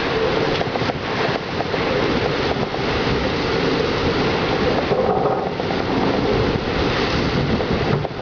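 Heavy rain and strong wind of a severe thunderstorm: a loud steady rush, with wind buffeting the microphone.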